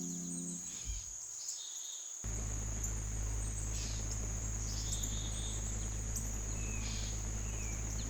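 Evening woodland ambience: crickets trill steadily, and short bird chirps come at intervals. A held musical chord dies away just after the start, and a steady low rumble of background noise comes in about two seconds in.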